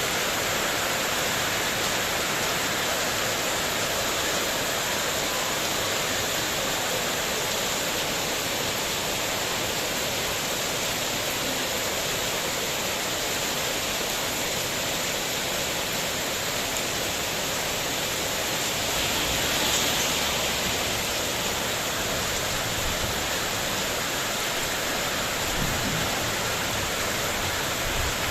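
Heavy rain falling steadily on a spandek metal roof in a windstorm, a dense even hiss. About twenty seconds in it swells briefly, and a couple of low thumps come near the end.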